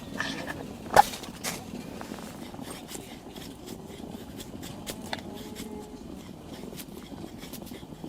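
Wood campfire crackling with scattered small pops, and one sharp clack about a second in.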